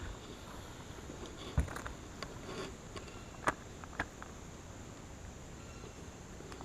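Faint steady drone of insects, with a few short sharp knocks about a second and a half apart over the first four seconds.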